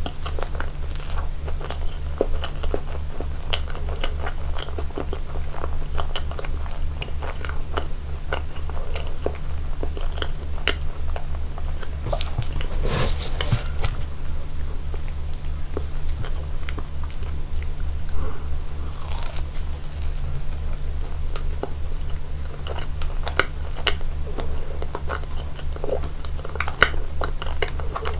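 Close-miked eating of slice cake: many small wet chewing clicks and bites, with a louder crunchy burst about 13 seconds in and another near 19 seconds. A steady low hum runs underneath.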